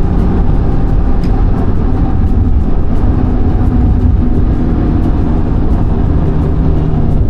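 A car being driven: a steady engine note over heavy low road rumble, the engine pitch stepping up a little about four seconds in.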